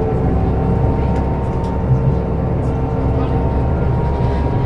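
Scania DC9 diesel engine and ZF Ecomat automatic gearbox of a Scania K270UB city bus running, a steady drone with a thin steady high tone over it.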